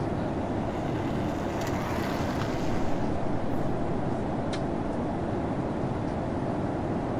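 Steady, even rumble of an airliner's engines and airflow heard inside the cabin, with a few faint ticks.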